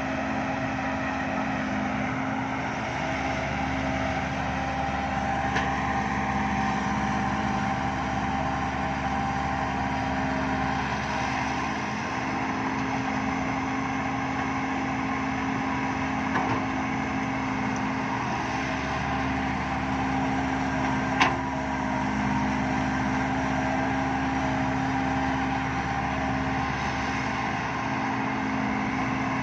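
Heavy diesel engine of construction machinery running steadily, a low rumble that eases and builds again a few times. A single sharp click about 21 seconds in.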